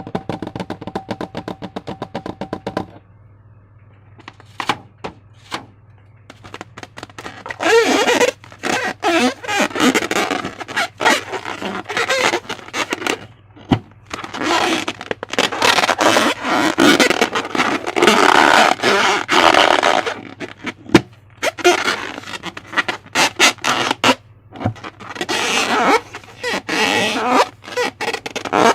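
Slime being squished and stretched by hand: long stretches of wet crackling full of small popping clicks. These follow a short run of rapid ticking at the start. A steady low hum runs underneath.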